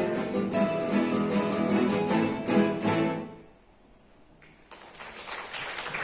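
An ensemble of acoustic guitars playing a Spanish dance, with strummed chords; the music ends about halfway through. After a second of near silence, a rising patter of applause begins.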